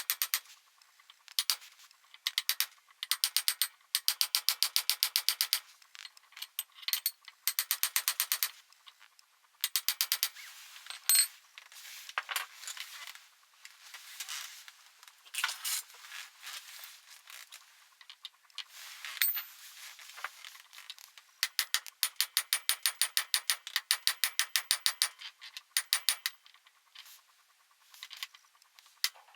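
Ratchet wrench being worked on bolts: quick runs of even clicks from the pawl, stopping and starting, with some metallic rattling of tools in between.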